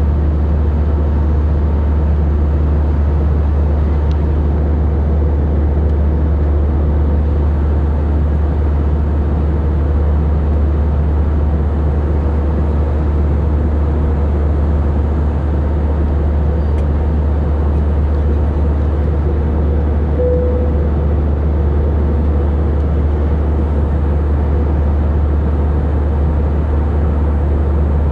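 Airliner cabin noise in cruise flight: a loud, steady low drone of engines and airflow, unchanging throughout, with a brief faint tone about twenty seconds in.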